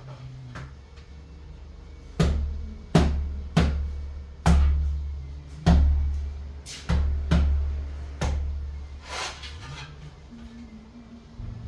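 About eight heavy thumps at uneven intervals, each with a booming low ring after it, followed near the end by a short scraping rustle.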